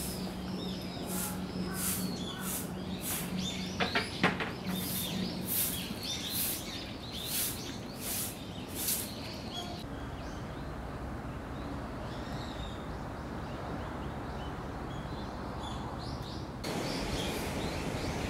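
Birds chirping and calling outdoors, with a quick series of sharp, very high chirps about twice a second at first. The calls thin out about halfway through, leaving a steady outdoor hush.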